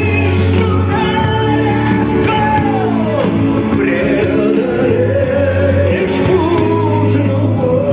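Live rock music with a sung melody over a steady bass line, played through a concert sound system.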